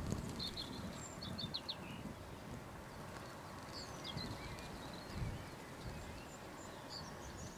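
Faint outdoor ambience: small birds chirping now and then in short high calls, over a low, uneven rumble of wind on the microphone.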